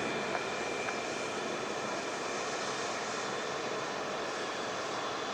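Jet airliner engine noise, a steady rush with a faint high whine.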